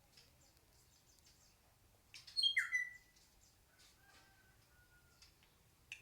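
Hair-crested drongo calling: about two seconds in, one short call of quick falling notes ending in a downward-swooping whistle, then a faint, thin, drawn-out whistle, and the same call beginning again at the very end.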